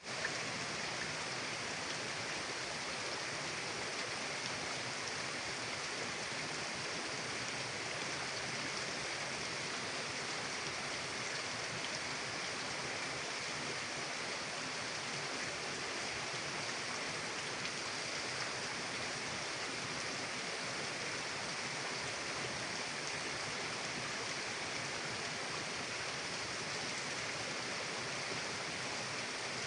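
Mountain river flowing, a steady even rushing of water with no breaks.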